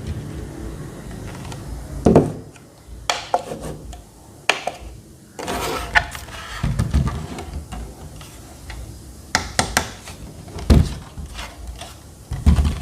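Irregular knocks and clicks of a rechargeable table fan being handled and set down, with a low rumble between the knocks.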